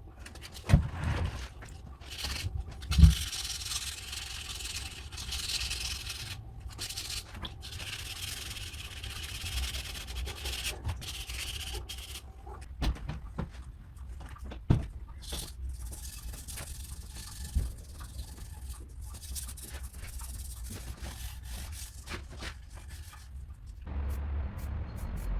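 Hand rubbing and scraping against a hard surface in long strokes, as in restoration work on the old machine, with a few sharp knocks in between.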